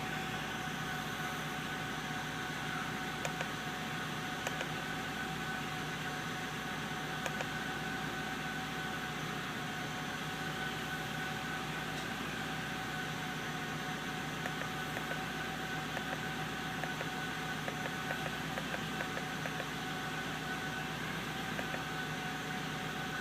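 1997 Ford Thunderbird's engine idling steadily while still out of gear during its cold warm-up, an even hum with a few faint ticks.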